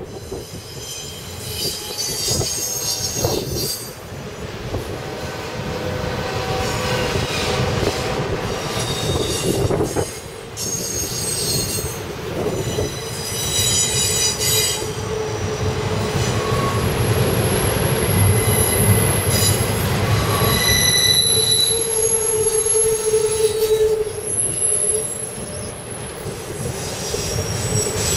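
Freight train of CSX autorack cars rolling past, steel wheels squealing on the rails in several high, steady tones that come and go over a low rumble. The squealing is loudest in the second half.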